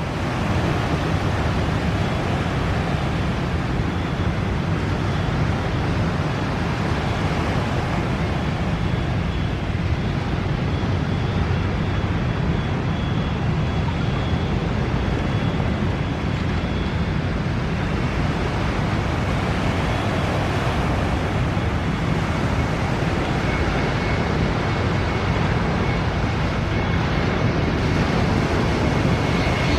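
Airliner jet engines running with a steady, even roar and a faint high whine that comes in over the last few seconds.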